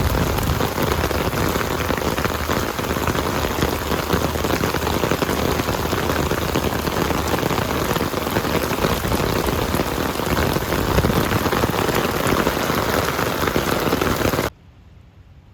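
Heavy rain falling steadily, a dense patter of many drops. It cuts off abruptly near the end.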